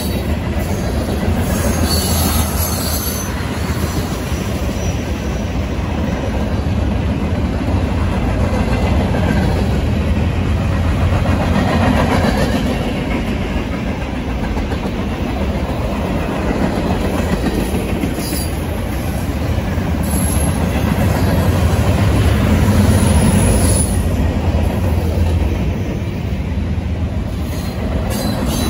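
Covered hoppers and boxcars of a long mixed freight train rolling past: a steady rumble and clatter of steel wheels on the rails, with a few brief, faint high-pitched wheel squeals.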